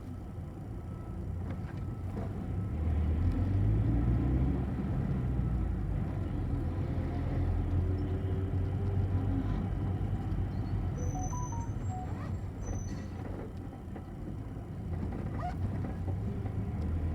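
City bus under way, its engine and road noise making a steady low rumble that swells a few seconds in, eases off late on and swells again at the end, heard from inside the passenger cabin. A few short high beeps come about two-thirds of the way through.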